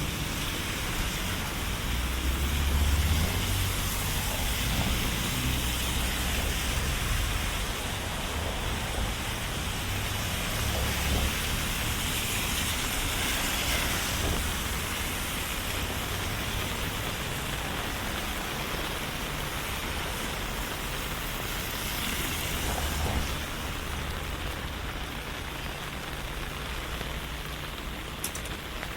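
Steady rain falling, with a low rumble of passing traffic in the first several seconds.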